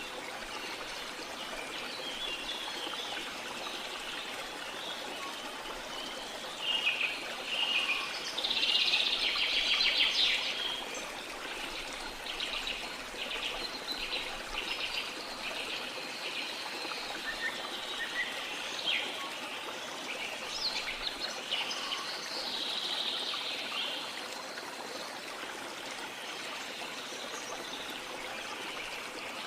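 Steady rush of falling water from a waterfall, with tropical rainforest birds calling over it. The loudest call is a rapid, buzzy trill about eight to ten seconds in, followed by a run of evenly spaced notes, about two a second.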